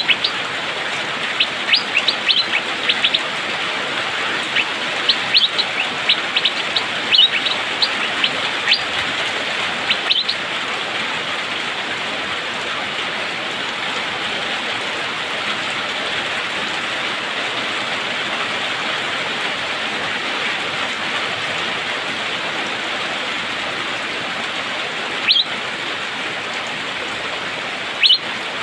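Asian fairy-bluebird (cucak biru) calling: quick runs of short, sharp chirps over the first ten seconds, then two single notes near the end, over a steady hiss.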